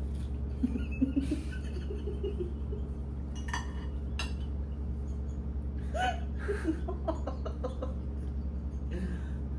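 Scattered light clinks of tableware during a meal, with brief soft laughs or murmurs, over a steady low hum.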